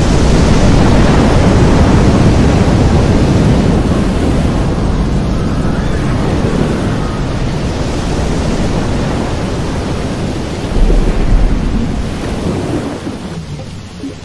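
Koi pond water churning and splashing over a camera held at the surface, a loud rushing with a heavy low rumble, stirred up by the koi thrashing their tails. A couple of stronger low thumps come about eleven seconds in, then the rushing dies down near the end.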